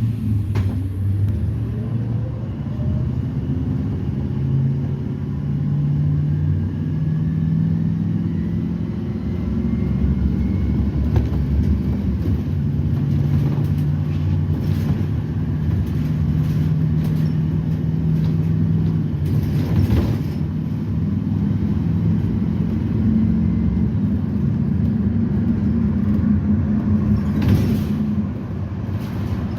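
Propane-fuelled GM Vortec V8 of a 2010 Blue Bird Vision school bus running under way with its Allison automatic transmission, heard from on board; the engine note rises as the bus accelerates in the first couple of seconds, then holds a steady low drone. A few short rattles come from the bus twice near the end.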